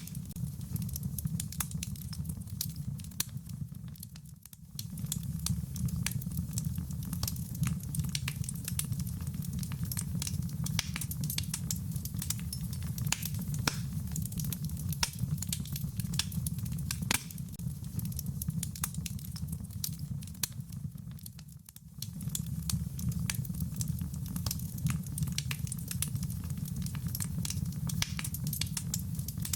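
Wood fire crackling with many sharp pops over a steady low rumble, mixed with the even patter of rain. The whole sound dips briefly twice, about four seconds in and again about twenty-one seconds in.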